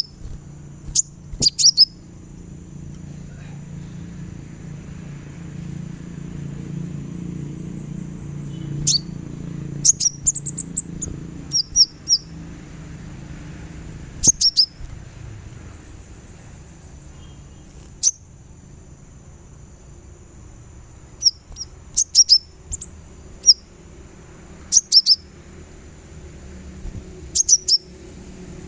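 Sunbird giving sharp, high chirps: very short notes sweeping quickly downward, singly or in quick runs of two to four, repeated every few seconds.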